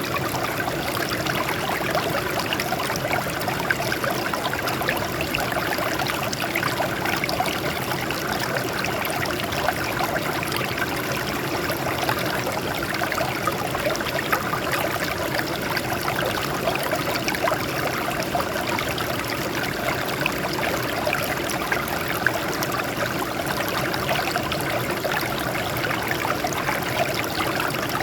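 Water flowing and trickling over rocks in a small stream, a steady babbling with many little splashes.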